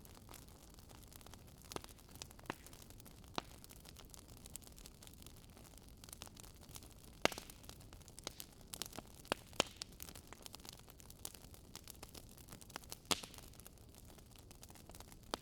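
Firewood crackling in a fireplace: irregular sharp pops and snaps over a faint steady hiss, the loudest pops about seven and thirteen seconds in.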